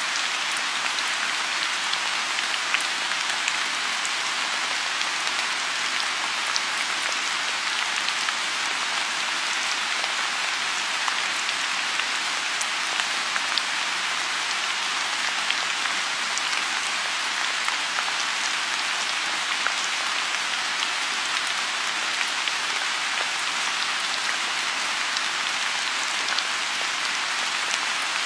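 Steady rain falling on a lotus pond: an even hiss sprinkled with small, sharp drop ticks.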